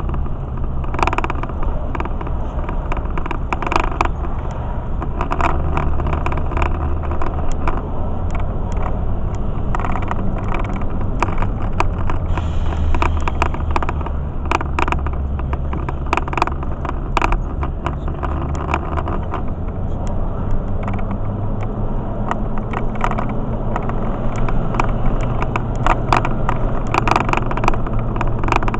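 Vehicle driving noise heard from inside the cab: a steady low engine and road drone, with many short clicks and knocks throughout.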